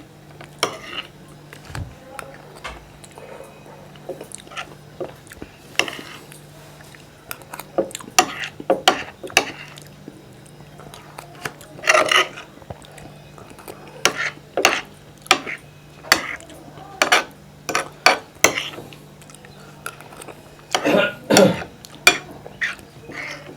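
Close-up eating sounds of soft, wet Indian sweets: a spoon clicking against a bowl and mouth chewing and smacking, in scattered short strokes, over a low steady hum.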